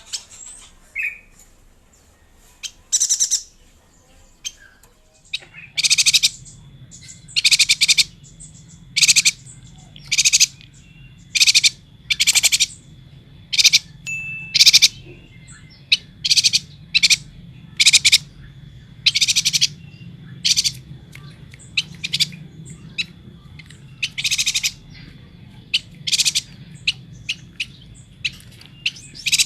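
Chestnut-crested yuhina chirping with short, high calls: a few sparse ones at first, then repeated about once a second from about five seconds in. A low steady hum comes in at the same point.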